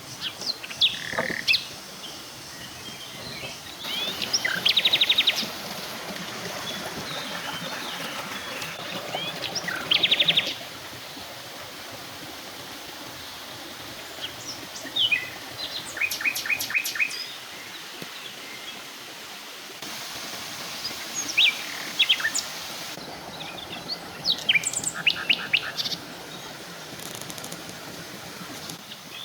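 Forest birds calling in bouts: high chirps and several fast rapid trills, over a steady background hiss.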